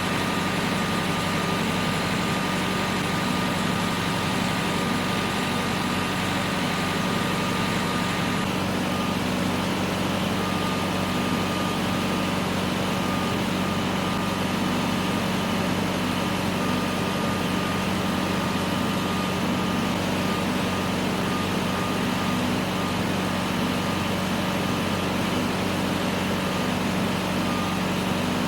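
Tractor engine running steadily under load, a continuous even drone.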